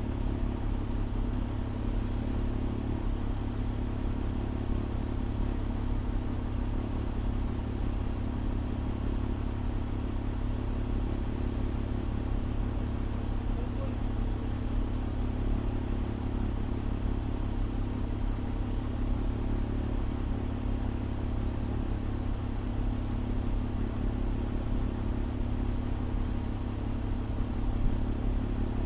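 Fire engine's engine running with a steady low drone that does not rise or fall, with a faint steady high-pitched whine above it.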